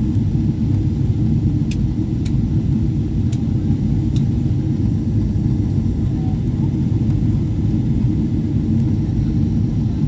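Steady low rumble of an airliner in flight on its landing approach, heard from the passenger cabin, with a few faint clicks a couple of seconds in.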